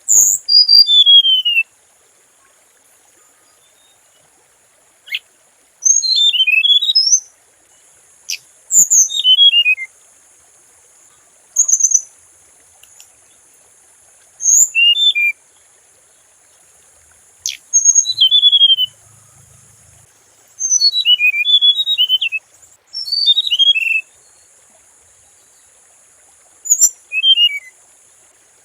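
Hồng hạnh songbird calling in short bursts of high, quick notes that slide downward in pitch. The bursts repeat every two to three seconds with pauses between. A faint steady high hiss runs underneath.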